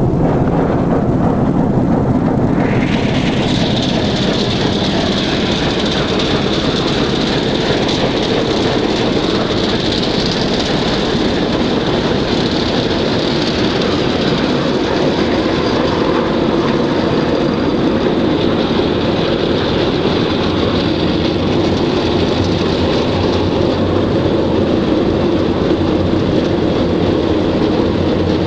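Alco S1 diesel switcher locomotive running steadily as it moves along the track, its engine rumbling low, with a steady high-pitched whine joining about three seconds in.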